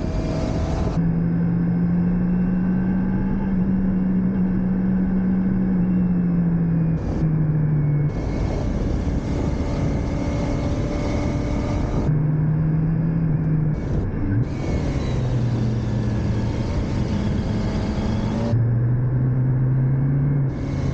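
Motorcycle engine running while being ridden, with wind noise over the microphone. The engine note steps up and down in pitch several times as the throttle and gears change.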